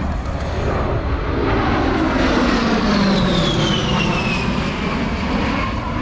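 An A-10 Thunderbolt II's twin TF34 turbofan engines on a fly-past. The jet noise swells to its loudest about three seconds in while a high whine glides steadily down in pitch as the jet passes and moves away.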